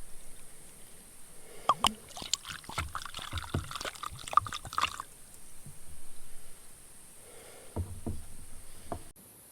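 Soup sloshing and pouring, with clinks and knocks of the pot and a small bowl, for about three seconds; a few more knocks near the end.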